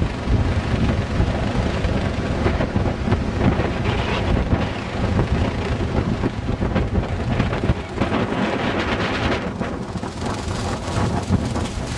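Strong wind buffeting the microphone, a dense low rumble that rises and falls in gusts.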